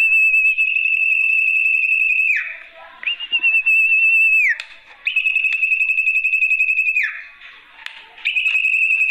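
Sertu (zepo) bird lure call: long, high, trilled whistles held at one pitch, each about two seconds long and dropping away at the end. Three come with short gaps between them, and a fourth starts near the end.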